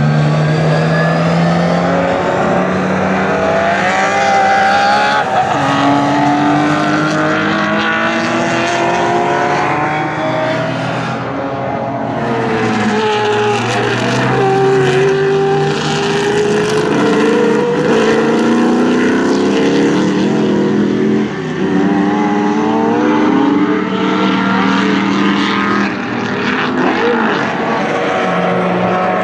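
Racing car engines at high revs, several at once, each pitch climbing through the gears and dropping sharply at every upshift as the cars pass.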